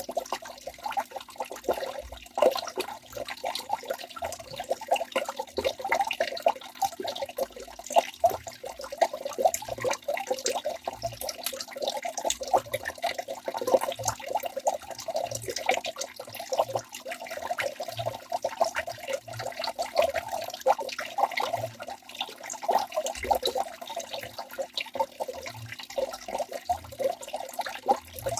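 Waterfall: water splashing and burbling continuously, a busy steady pattern of bubbling and small splashes.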